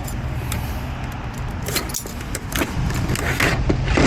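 Light metallic clinks and rattles of hand tools being handled, a scatter of short sharp clicks, over a steady low hum.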